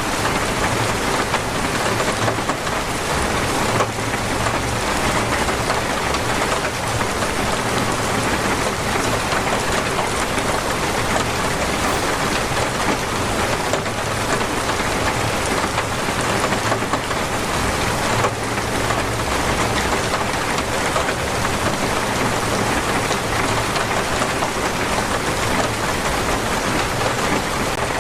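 Torrential rain pouring steadily, a dense even hiss of drops on surfaces, with a low rumble underneath.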